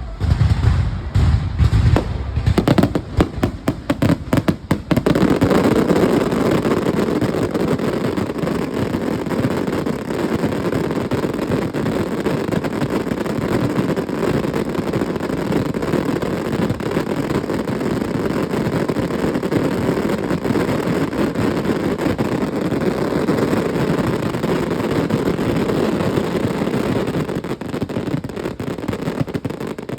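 Fireworks going off: a few separate loud bangs in the first seconds, then from about five seconds in a dense, unbroken barrage of crackling bursts.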